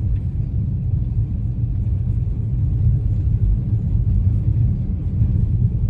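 Steady low rumble of road and tyre noise inside a moving all-wheel-drive car's cabin.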